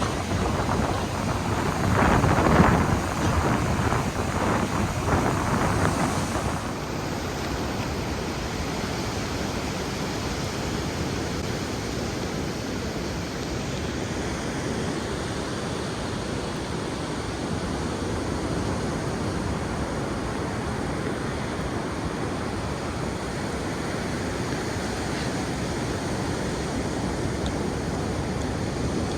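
Ocean surf washing steadily, with wind buffeting the microphone hard for the first six seconds or so before it settles into an even rushing hiss.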